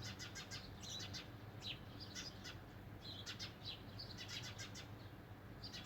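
Small birds chirping, with quick runs of short high notes repeating about once a second, over a faint steady low hum.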